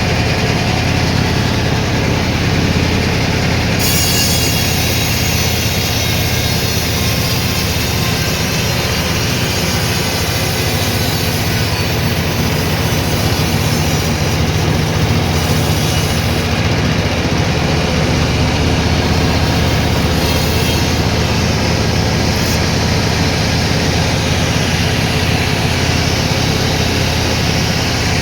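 Sawmill machinery running: a steady, loud motor hum, with a higher hiss of the saw that comes in about four seconds in.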